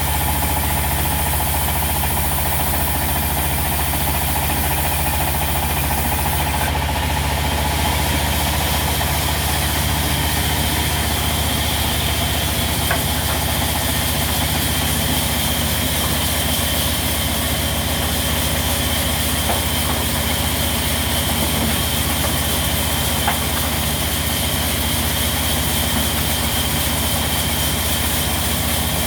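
A sawmill's diesel engine running steadily at constant speed.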